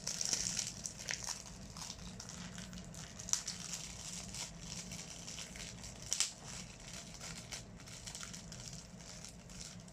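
Packaging wrapper crinkling and rustling while a blind-box toy is unwrapped and handled, with scattered small clicks and a couple of sharper crackles, about three seconds and six seconds in.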